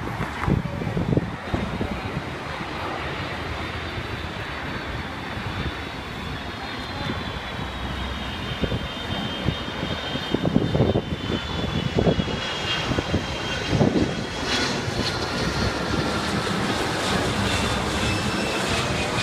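Airplane passing low overhead, a steady engine roar with a high whine that slowly falls in pitch as it goes by. A few low thumps come about halfway through.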